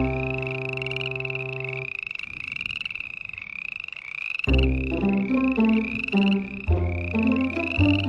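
A frog calling in a rapid, evenly repeated series, about two to three calls a second, over background music with held notes. The music drops out for a couple of seconds mid-way while the calls carry on.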